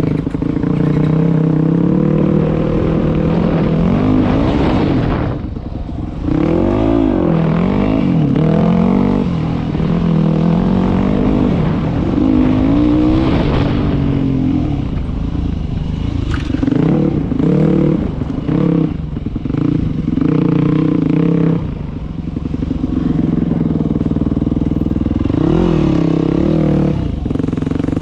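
Dirt bike engine running under way on a bush trail, revs rising and falling again and again as the rider works the throttle, with short drops in revs about six seconds in and again near twenty-two seconds.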